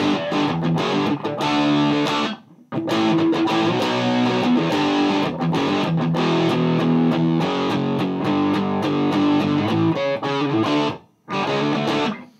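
Gibson Les Paul played through a Mesa Boogie Dual Rectifier tube amp in its spongy power setting, driving a Marshall 1960A 4x12 cabinet: distorted rhythm chords with short stops about two seconds in and near the end, before the playing cuts off.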